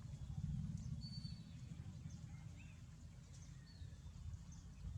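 A few faint, short, high chirps from small birds over a steady low rumble.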